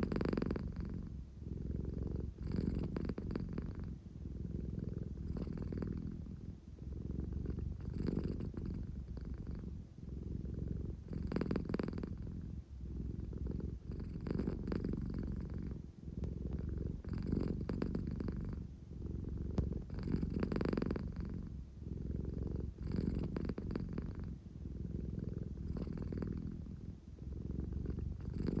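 American Shorthair cat purring steadily and deeply, swelling and easing with each breath about every three seconds.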